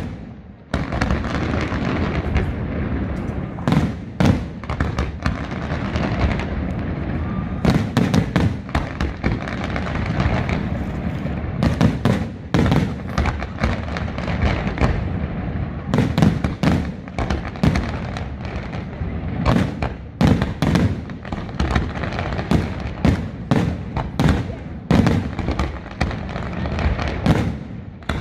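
Aerial fireworks display: a continuous rumble of shell bursts with many sharp bangs and crackles coming in quick clusters.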